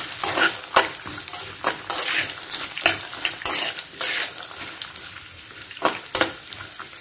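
Raw peanuts frying in hot oil in a kadhai, sizzling as a steel slotted spatula stirs them, with frequent scrapes and clicks of the spatula against the pan. This is the stage of roasting the peanuts in the tempering until they turn red.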